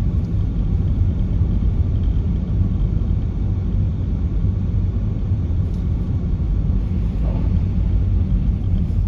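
Cabin noise inside a moving people carrier: a steady low rumble from road and engine, with the heater fan blowing hard.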